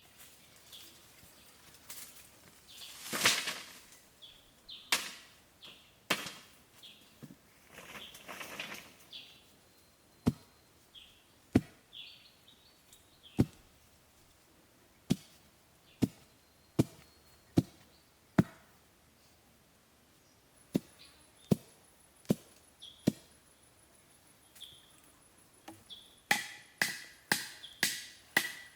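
Chopping strikes on wood: sharp single blows about a second apart, a few rustling swishes a few seconds in, and a quick run of blows near the end. Faint bird chirps sit behind.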